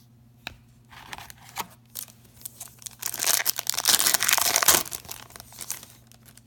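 Wrapper of a hockey card pack crinkling and tearing as it is opened. A few light rustles and clicks come first, then a loud stretch of crinkling from about three to five seconds in.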